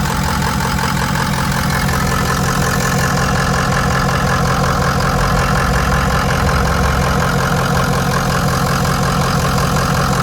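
Ford 6.0L Power Stroke turbo diesel V8 idling steadily, with its oil fill cap off. There is only a tiny, very minor bit of blow-by from the fill opening, not huffing or puffing, which the owner takes for a pretty good running engine.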